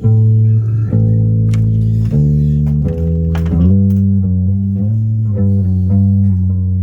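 Bass guitar playing a line of sustained low notes, each held for about a second, then moving to quicker, shorter notes from about four seconds in.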